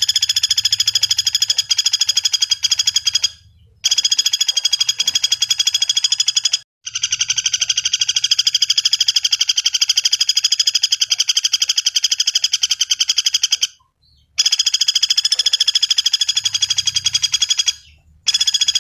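Pelatuk bawang (common flameback woodpecker) calling: a rapid, high-pitched rattling trill given in long runs of a few seconds each, broken by brief pauses, the longest run lasting about seven seconds.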